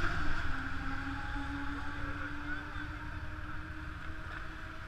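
Scooter engine running while riding, a steady engine note over low wind rumble on the microphone.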